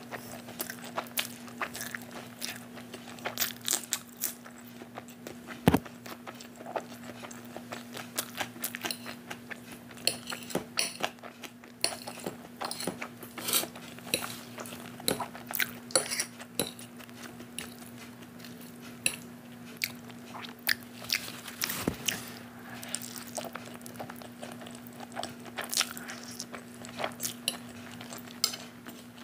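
Close-miked mouth sounds of someone eating Maggi instant noodles: irregular wet chewing smacks and clicks over a steady low hum. Two sharper thumps stand out, about six seconds in and again about 22 seconds in.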